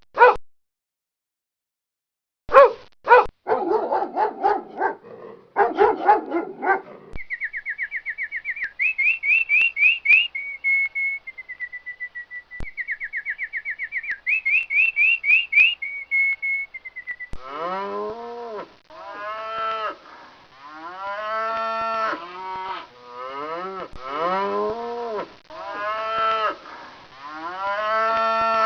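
A run of animal calls: a dog barking, then a high, rapid trill, then a long series of drawn-out calls about one a second, each rising and falling in pitch, like farm animals calling.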